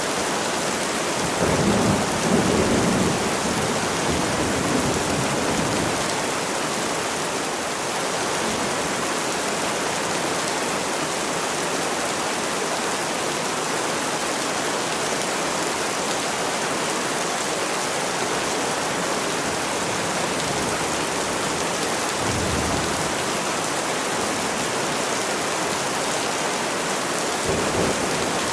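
Steady rain falling, an even hiss throughout, with a low rumble of thunder swelling about two seconds in and fainter rumbles near the end.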